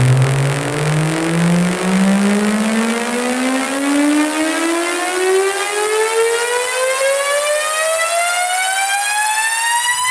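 Synthesized test-tone sweep: a buzzy tone rising steadily in pitch from a low hum to a high tone.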